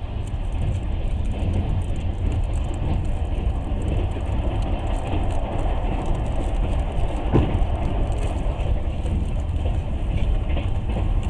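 Moving train heard from inside the carriage: a steady rumble of wheels on the rails, with one brief knock about seven seconds in.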